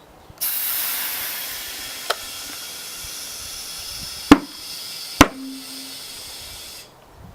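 Compressed air hissing into a car tyre, with a small pop and then two loud bangs as the tyre bead snaps onto the rim. The hiss starts suddenly and cuts off shortly before the end.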